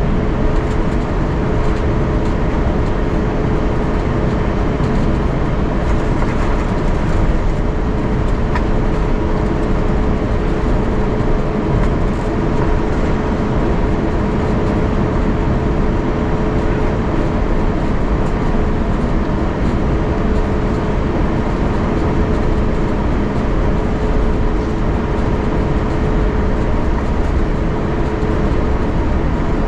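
Airbus A350-900 cabin noise while taxiing: the Rolls-Royce Trent XWB engines run at idle with a steady hum, over a continuous low rumble from the gear and airframe.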